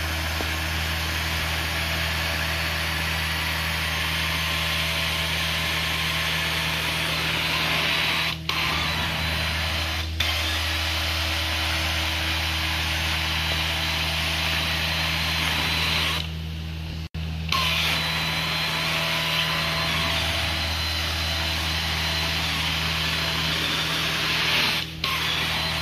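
Carpet-cleaning extraction machine running, with a steady low hum under the hissing suction of the wand drawing water and dirt out of the carpet. The hiss breaks briefly a few times, with a longer break about two-thirds of the way through.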